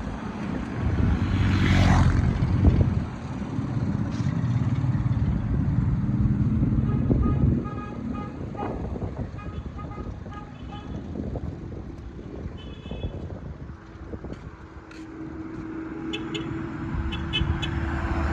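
Road traffic: vehicle engines running, with a few short car horn toots in the middle.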